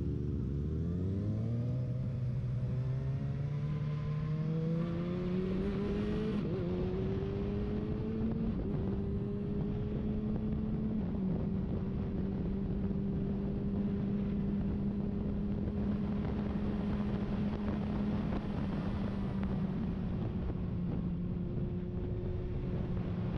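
Sport motorcycle engine accelerating through the gears. The pitch climbs in steps over the first several seconds, then holds steady at cruising speed. Road and wind noise run underneath.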